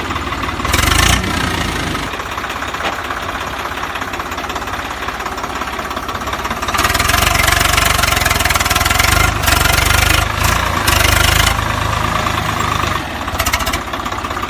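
Engine sound: a steady idling throb, with louder surges of noise about a second in and again from about halfway through until near the end.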